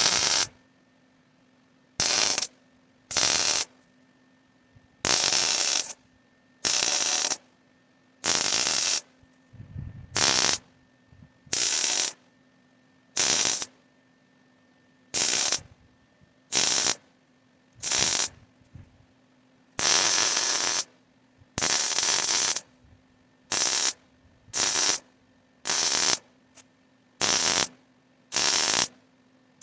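A ratcheting tool run in about twenty short, even-loudness bursts, spaced irregularly, as fasteners are run in or out, with a faint steady hum underneath.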